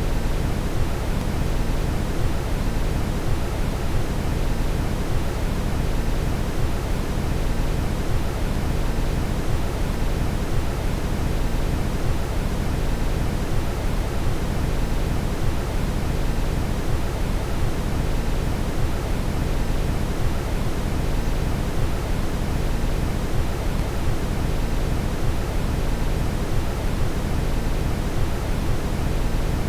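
Steady brown noise: an even, unbroken hiss weighted heavily toward the bass.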